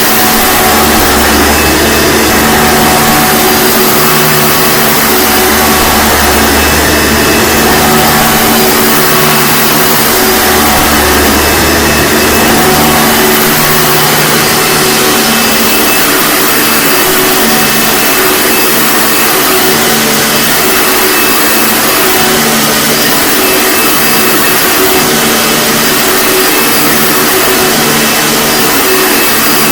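1997 Hoover Sprint U4257-930 vacuum cleaner running with a steady, loud motor and fan sound, with a low rumble that comes and goes in the first half.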